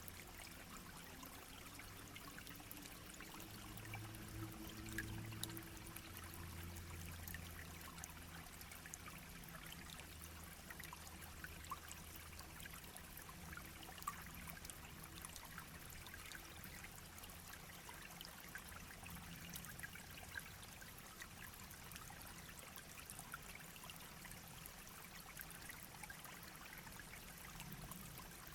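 Small shallow stream babbling over stones: a faint, steady rush of water with many small trickles and splashes. A faint low hum sits underneath in the first half.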